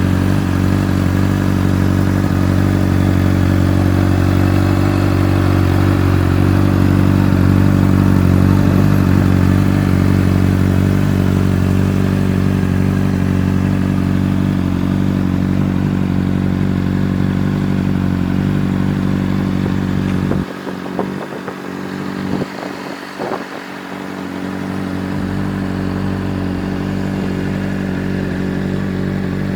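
Honda CBR600RR's inline-four engine idling steadily. About twenty seconds in, the engine note drops out for a few seconds amid some clicks and clatter, then a steady running sound returns.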